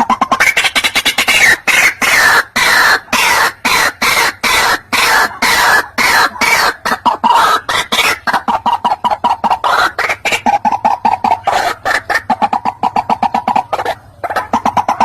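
White-breasted waterhen calling: a long run of rapid, repeated croaking notes, many a second, with a brief pause near the end.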